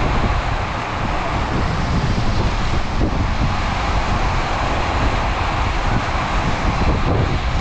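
Heavy rain pouring down in a steady, dense hiss, over a low rumble.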